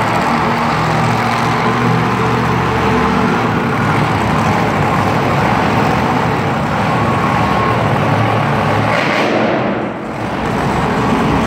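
Heavy recovery vehicle's engine running steadily while it tows a disabled monster truck. The sound dips briefly near the end.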